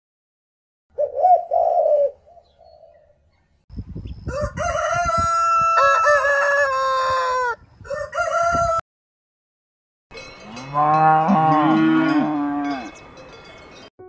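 Farmyard animal calls in turn: a pigeon cooing briefly about a second in, then a rooster crowing at length, then several lower rising-and-falling animal calls near the end.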